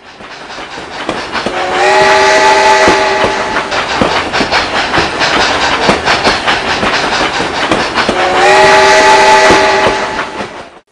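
A train whistle sounding twice, a chord of several steady tones, once about two seconds in and again about eight seconds in. Between the blasts comes the rhythmic clatter of the train getting under way. The clatter builds up from the start and cuts off near the end.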